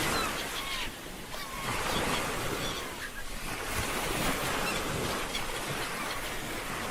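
Sea waves washing onto a shore, the surf swelling and easing in slow surges, with wind. A few faint short bird calls sound over the surf.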